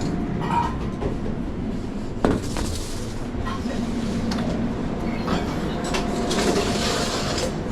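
Steady low rumble of a busy commercial kitchen, with scattered light clatter and one sharp knock about two seconds in.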